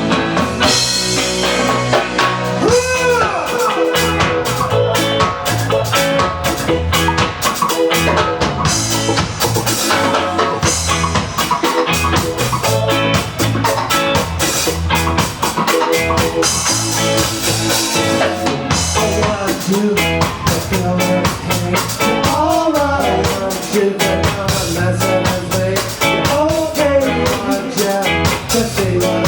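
Live ska band playing: drum kit, guitar and bass in a steady upbeat groove, with a sung melody line over it.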